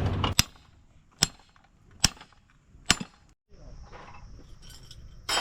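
Four sharp knocks, evenly spaced a little under a second apart, each with a brief ringing tail. They are followed by a faint steady high-pitched whine.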